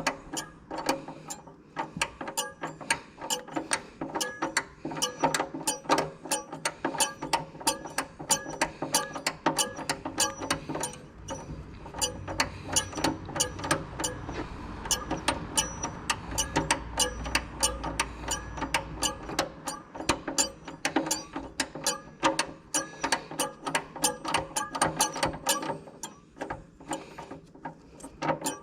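Socket ratchet wrench clicking in quick, repeated strokes as bolts are turned, several clicks a second.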